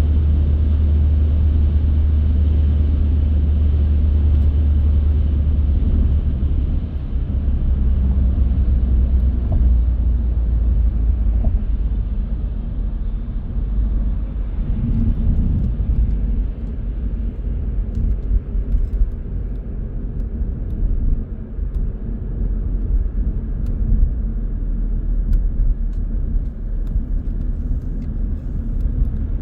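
Car driving on the road: a steady low rumble of engine and tyre noise, heaviest for the first few seconds and easing a little about six seconds in.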